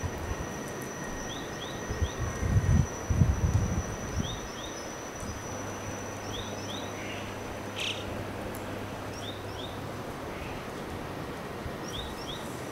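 Outdoor ambience: a small bird repeats a short rising two-note chirp every second or two. There are low rumbling thumps about two to four seconds in, the loudest sound, and a faint steady low hum through the middle.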